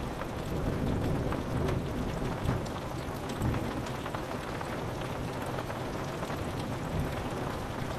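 Steady rain pattering on window glass, with many single drops ticking, and a low rumble of thunder swelling through the first half.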